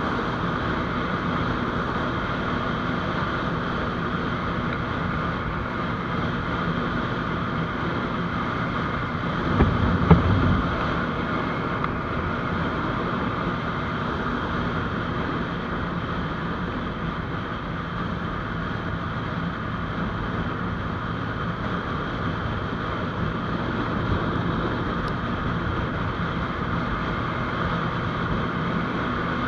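GPX GR200R motorcycle cruising at a steady speed: the engine holds an even pitch under a rush of wind on the microphone. About ten seconds in there is a brief low thump.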